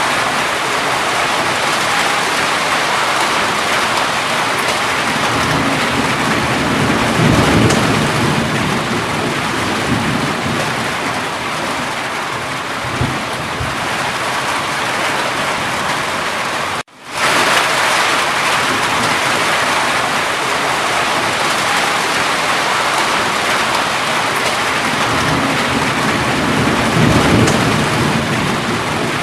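Steady, heavy rain pouring down, with low rolls of thunder about a quarter of the way in and again near the end. A little past the middle the sound cuts out for a split second and comes straight back, like a loop joining.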